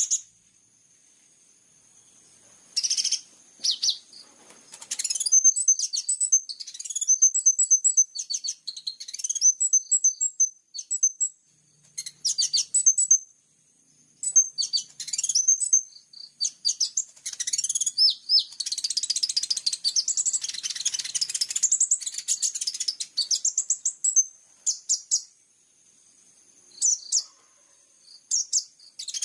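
High-pitched songbird chirps and fast twittering trills in bursts with short pauses between them, running into a long unbroken stretch of twittering in the second half.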